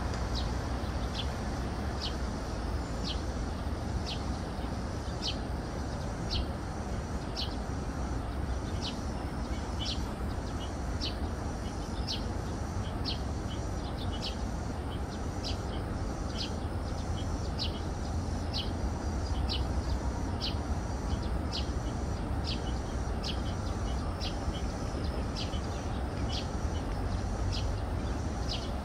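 A small bird repeating a short high chirp over and over, about one to two times a second, over a steady low rumble.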